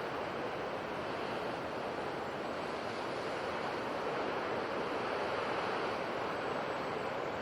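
Steady rushing of sea surf, with no single wave break standing out.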